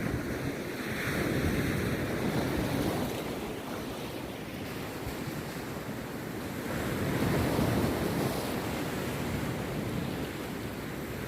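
Rough sea surf breaking on a beach: two big surges of wave noise about five seconds apart, the second swelling up about six and a half seconds in, with the wash continuing between them.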